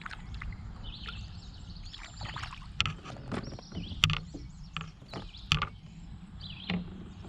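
Scattered sharp knocks and clicks from fishing gear handled against a kayak while a hooked fish is being fought, over a steady low hum.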